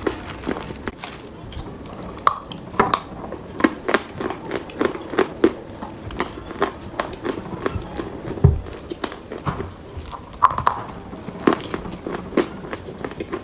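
Dry chalk being bitten and chewed close to the microphone: a steady run of sharp, irregular crunches.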